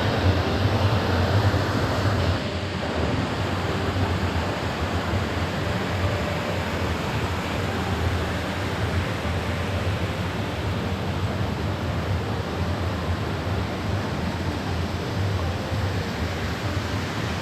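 Stream water rushing steadily over rocks, a loud, even wash of noise that dips slightly about two seconds in.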